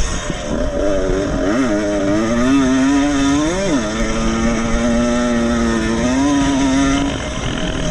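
Vintage two-stroke motocross motorcycle engine revving hard, its pitch climbing and dropping sharply twice as it shifts, then holding steady. The pitch rises again about six seconds in, and the engine note drops away about a second before the end.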